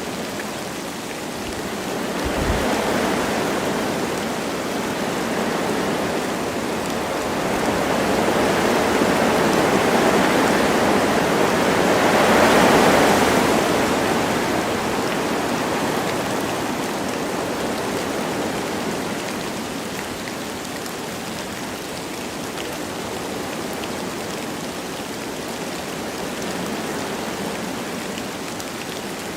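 Wind rushing through forest trees with light rain, swelling in gusts that peak about twelve seconds in and then easing back.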